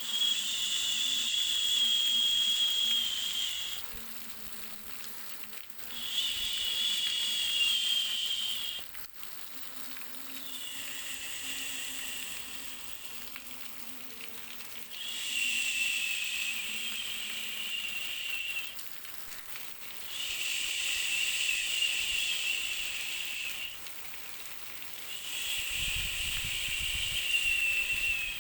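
A high hissing buzz that comes in six separate bursts of about three to four seconds each, with short dips between them.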